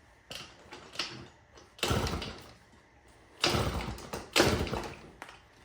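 Yamaha PW50's 50cc two-stroke single being kick-started three times, each kick turning the engine over with a short mechanical clatter. The carburettor intake is blocked with a finger as a choke, and the throttle slide is stuck open.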